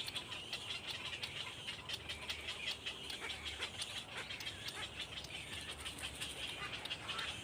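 Birds chirping: a steady high twittering made of many short, rapid chirps.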